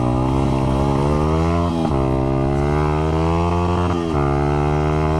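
Honda CRF100 dirt bike's small single-cylinder four-stroke engine pulling hard under throttle. Its pitch drops sharply twice, about two and four seconds in, then climbs again.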